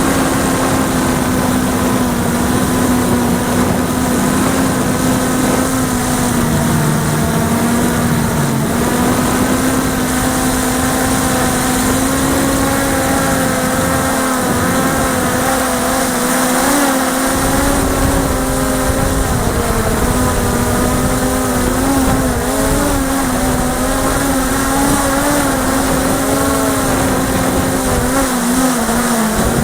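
Electric motors and propellers of a 450-size X8 coaxial multirotor drone in flight: a steady hum whose pitch wavers slightly as the motors correct. Wind rumbles on the microphone underneath.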